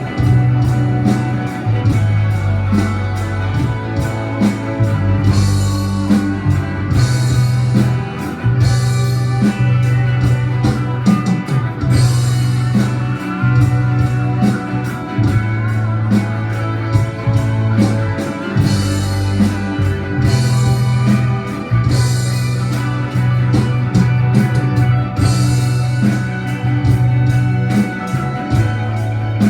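Live rock band playing an instrumental electric guitar solo over bass and drums, with steady cymbal strokes and a crash every couple of seconds.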